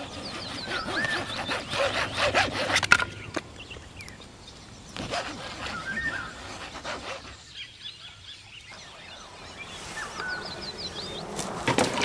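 Birds chirping and calling: short up-and-down chirps and quick runs of high falling notes, over scattered clicks and rustles.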